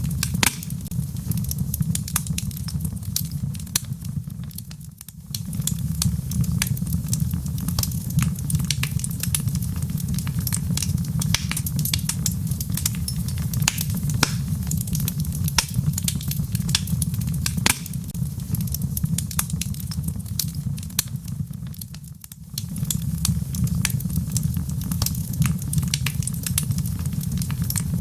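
Wood fire burning in a fireplace: a steady low rumble of flame with frequent sharp crackles and pops from the logs. The sound dips briefly twice, about five seconds in and again a little past twenty seconds.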